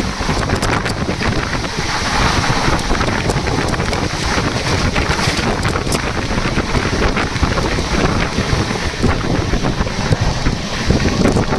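Loud, steady wind buffeting the microphone, mixed with the low rumble of a moving train.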